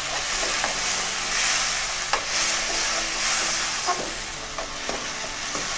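Chopped tomatoes, onion, garlic and ginger sizzling in hot oil in a wok while a slotted spatula stirs and scrapes them, with a few sharp clicks of the spatula against the pan.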